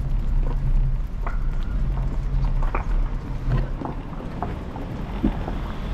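Steady low rumble of wind and road noise on the microphone of a moving bicycle, with scattered short light clicks and rattles.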